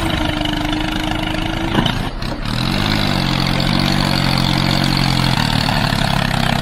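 An engine running with a steady low rumble; about two and a half seconds in it revs up slightly and then holds at a steady higher pitch.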